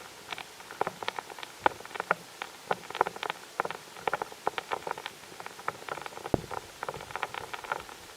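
Irregular patter of light ticks and taps, several a second, over a faint steady hiss.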